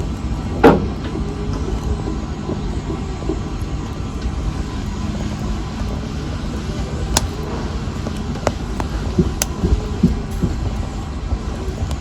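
Wood fire burning in a fireplace: a steady low rumble of flames, with one loud crackling pop under a second in and several smaller sharp pops later on.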